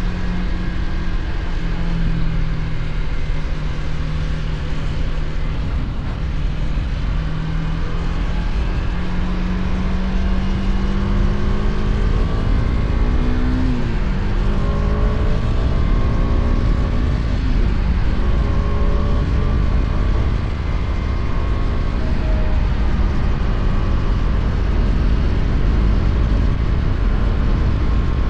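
KTM Duke 250's single-cylinder engine running at road speed under heavy wind and road noise. The engine note climbs slowly, then drops suddenly about halfway through.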